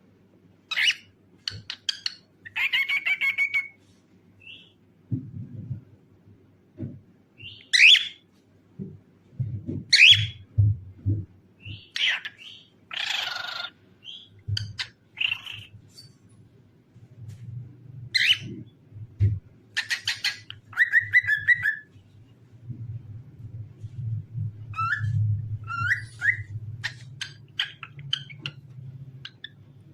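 Cockatiel calling in short chirps and whistles, some sliding in pitch, with gaps of a second or two between calls. A low hum sits underneath at times.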